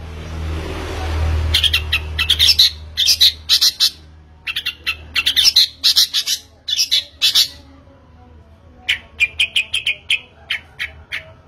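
A bird calling in quick runs of short, sharp chirps and squawks, with a pause of a few seconds partway through, over a steady low hum.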